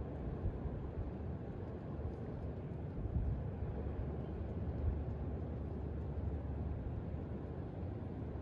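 Wind blowing in gusts on a snowy night, a low, steady noise that swells slightly a few times.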